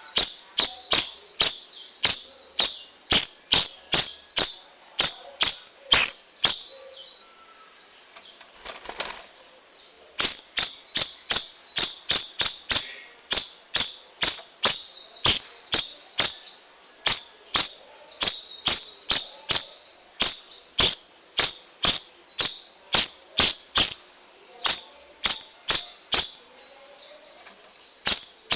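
Cucak rawis songbird singing a loud, fast string of sharp, high notes, about two to three a second, with a short pause partway through.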